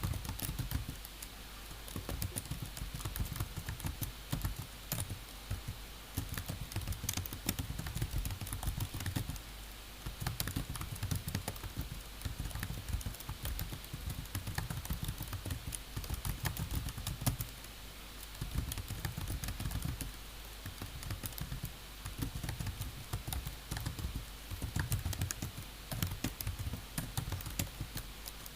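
Typing on a computer keyboard: rapid runs of keystrokes with short pauses every several seconds.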